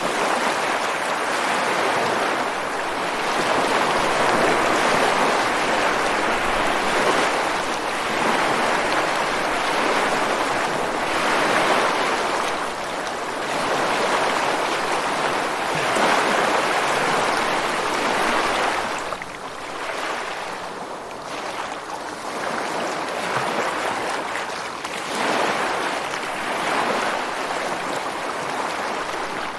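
Ocean waves breaking on the shore: the surf rushes in and washes back in swelling surges every few seconds, with no pause between them.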